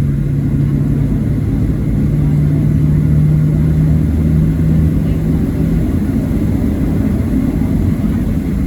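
Boeing 737-700's CFM56-7B jet engines running at taxi power, heard as a steady low rumble inside the cabin. A steady low hum runs over it and stops about six seconds in.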